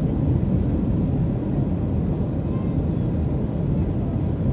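Steady low rumble of a Boeing 737-700 heard from inside the passenger cabin.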